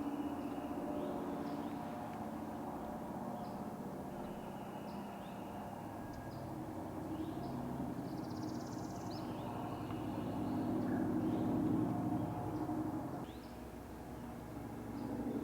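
A steady engine-like hum that swells about eleven seconds in and drops off sharply near the end, with small birds chirping over it.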